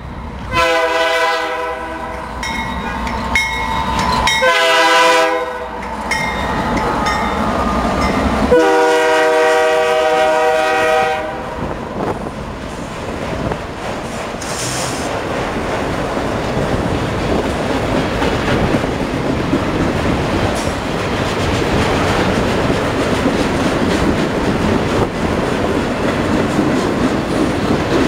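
Diesel freight locomotive horn sounding three blasts, the last one the longest, as the train closes in. Then the steady rumble and clickety-clack of autorack freight cars rolling past close by.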